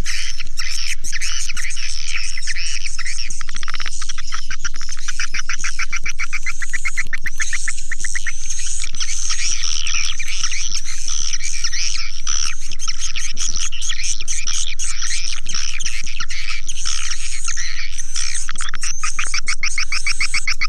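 Swiftlet lure call: a dense, continuous chorus of rapid twittering chirps and buzzy trills from swiftlets, the kind of calling sound played to draw swiftlets into a nesting house.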